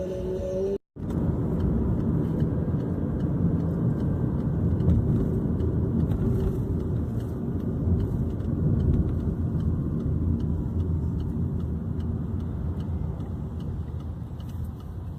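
Car driving on the road: a steady low rumble of engine and tyres. A snatch of music at the start cuts off abruptly under a second in.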